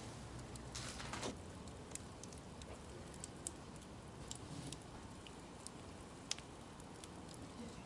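Wood campfire crackling faintly: scattered sharp pops and ticks over a low hiss, with a short louder hiss about a second in.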